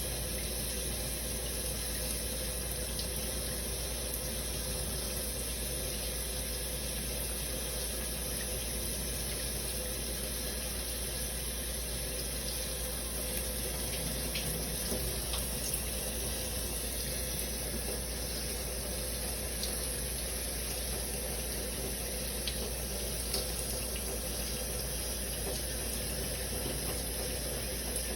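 Shower running: a steady spray of water with a few faint ticks scattered through it.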